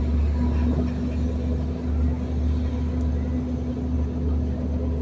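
Garbage truck engine running steadily while the truck drives: a constant low drone with a steady hum above it.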